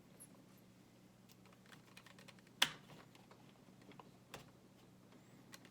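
Faint, scattered small clicks and taps of hand work on the plastic and metal parts of an RC truck's shock and suspension mount, with one sharper click about two and a half seconds in and another near four and a half, over a faint steady hum.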